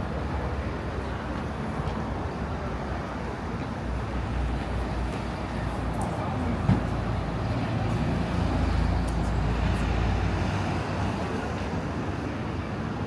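City street ambience with road traffic running steadily. A vehicle's low rumble builds and fades in the second half, and there is a single sharp click near the middle.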